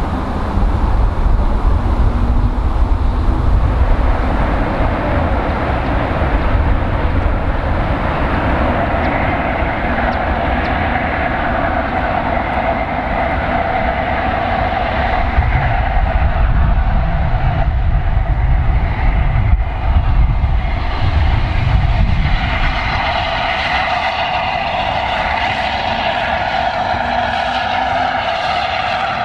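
A steam train running past on the rails, with a steady high ringing tone that grows stronger over the second half. Heavy wind rumble on the microphone.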